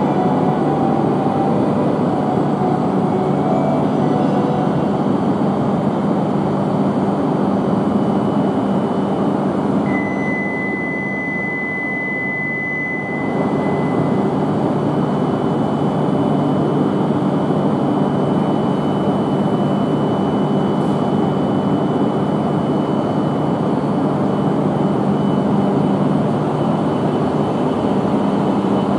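E5-series Shinkansen train at the platform, its running noise a loud steady rumble. About ten seconds in the rumble dips and a clear high tone sounds for about three seconds, then a thinner high tone holds steady through the rest.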